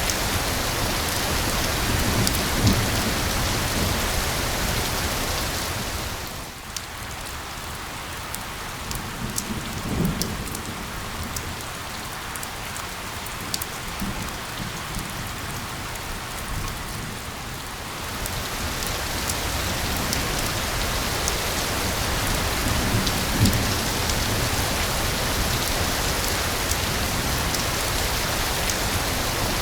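Steady heavy rain hiss with separate drops ticking, and a few low rumbles of thunder. The rain eases and quietens about six seconds in, then builds back up after about eighteen seconds.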